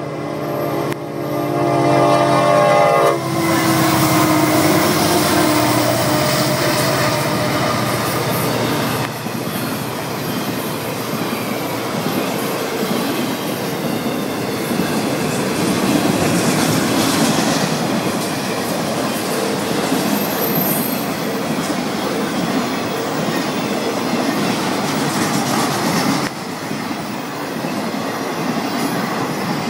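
Florida East Coast Railway diesel freight locomotive horn sounding a chord, cutting off about three seconds in, followed by the long freight train rolling past with a steady rumble of wheels on rails.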